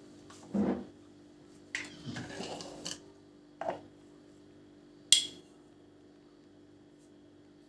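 Household objects being handled: a soft knock, a few seconds of scraping, a dull thud, then a sharp bright clink about five seconds in, over a faint steady low hum.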